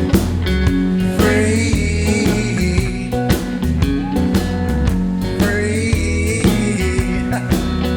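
Live band music: a male singer draws out the word "free" twice over guitar, bass and a steady drum beat.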